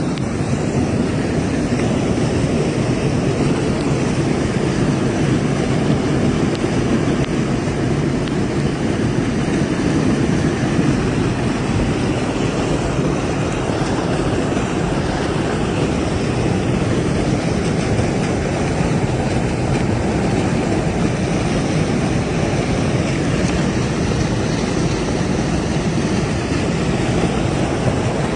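Steady, unbroken rush of surf, with wind buffeting the microphone.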